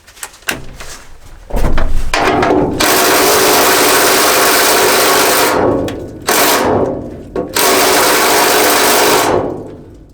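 A power tool driving a socket, run in two long spells of a few seconds each and spinning down with a falling whine after each, preceded by a few clicks.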